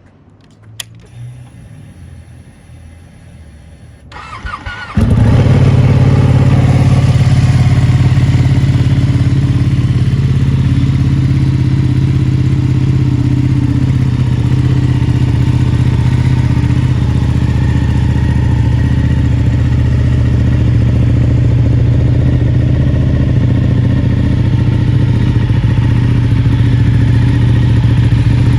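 Ducati Panigale 959's Superquadro L-twin engine, breathing through a full Akrapovic exhaust system, being started. A click and a faint high whine come first, then the starter cranks briefly and the engine fires about five seconds in. It then idles loudly and steadily.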